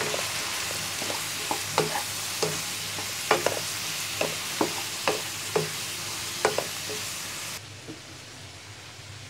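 Sliced flat beans and fried onions sizzling in hot oil while a spatula stirs them, knocking and scraping against the pan about twice a second. The sizzling cuts off suddenly near the end.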